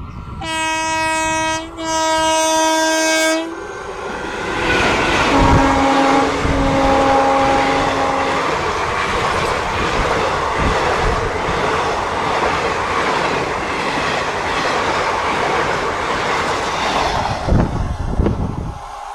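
Express train hauled by a WAP-4 electric locomotive passing at speed. Its horn sounds two loud blasts, then a third, lower-pitched one. The coaches then rush and clatter past for over ten seconds before the noise falls away near the end.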